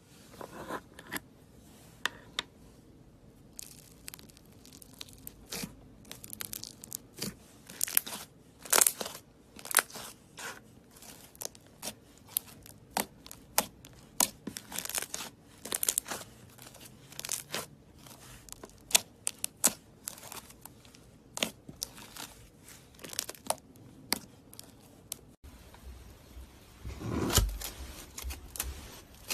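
Slime crackling and popping as it is handled: a run of sharp, irregular pops and clicks, with a longer, louder, deeper squish near the end.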